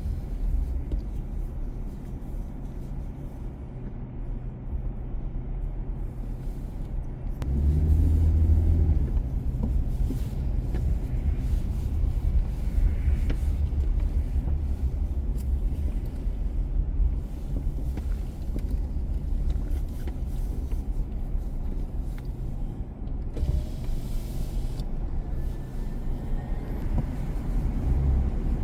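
Car driving through city streets: a steady low rumble of engine and road noise, with a louder low drone lasting about a second roughly a quarter of the way in.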